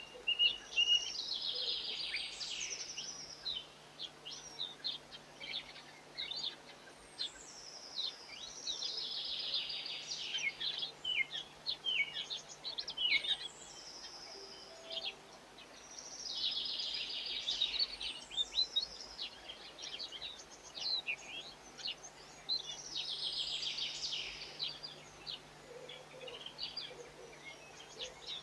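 A songbird sings the same short, rapid phrase about every seven seconds, each phrase opening with a high whistle. Single chirps fall in between.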